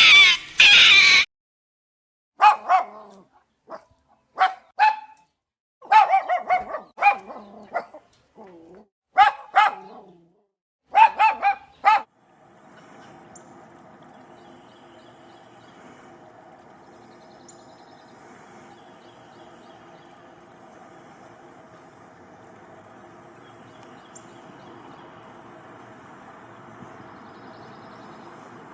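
A dog barking and yipping in short, separate bursts for the first twelve seconds or so. Then a steady, quieter high-pitched buzzing drone takes over.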